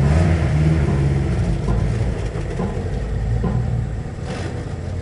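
Engine of a car at a vehicle meet, running with a low rumble that eases off about four seconds in.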